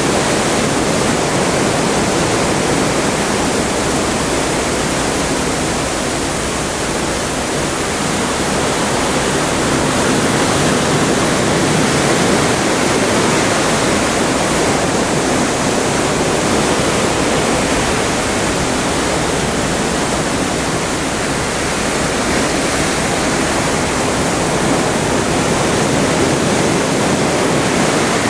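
Atlantic Ocean water rushing past a moving ship at sea, a loud, steady wash that eases slightly now and then.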